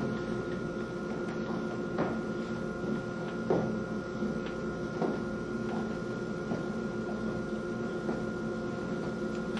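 Steady hum of the theatre's room and air handling, with a scattered series of light knocks and clicks, the clearest about two, three and a half, and five seconds in.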